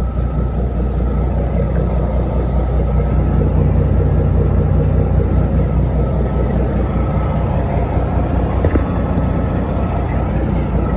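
Diesel engine of a 1995 Mack CH613 truck idling steadily, with a single sharp click about nine seconds in.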